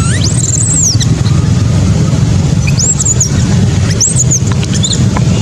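Baby monkey crying in short, very high-pitched squeals that rise and fall in pitch, four in a row about a second apart. A steady low rumble runs underneath.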